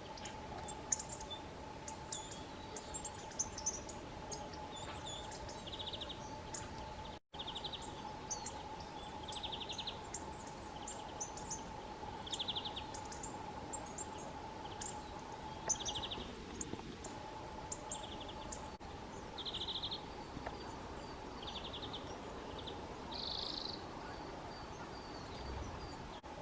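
Small songbirds calling: a short trilled call repeated every second or two, mixed with scattered high chirps, over a faint steady hum. The sound cuts out for an instant about seven seconds in.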